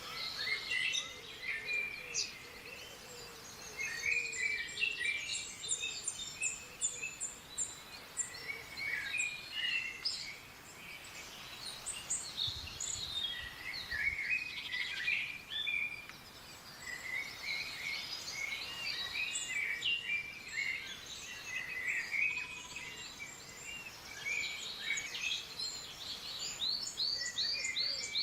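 Several small birds chirping and singing over one another: many short, quick notes and trills with no pause, over a faint steady hiss.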